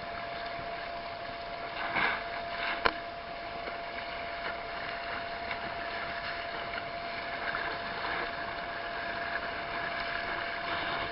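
Steady rush of water along a sailing canoe's hull, with a short splash about two seconds in and a sharp knock just after; a faint steady tone runs underneath.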